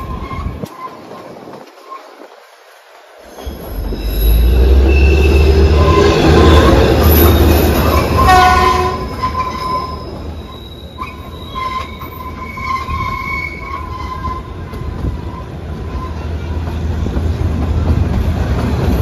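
Kalka–Shimla narrow-gauge toy train running, the rumble growing much louder about four seconds in. Thin, high, steady wheel squeal comes and goes over the rumble.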